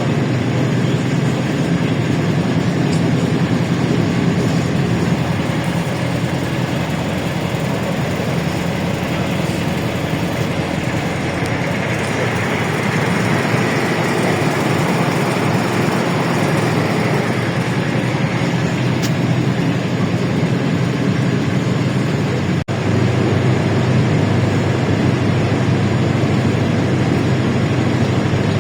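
LiAZ-677M bus under way, heard from inside: its ZIL V8 petrol engine drones low and steady under a constant hiss of road and cabin noise. The sound cuts out for an instant about three-quarters of the way through, then carries on.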